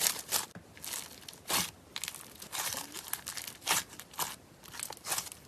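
Slime being pressed and worked by hand close to the microphone, giving irregular sharp crackles and pops.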